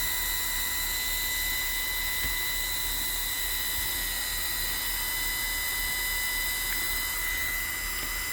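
Steady high-pitched electric whine over a hiss, from a small motor or fan on the shop equipment, running evenly without change.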